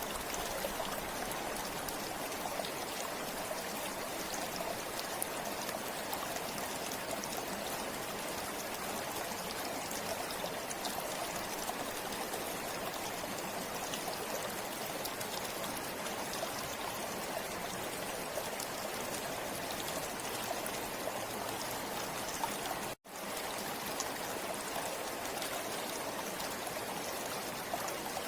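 Forest river flowing steadily, an even rush of water with fine trickles and splashes. About 23 seconds in the sound drops out for a split second, then picks up again unchanged.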